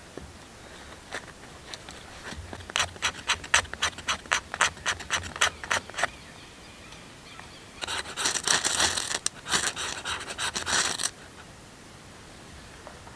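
Wood being worked by hand with a tool: a run of about fifteen quick, sharp scraping strokes, then a few seconds of denser, continuous scratching.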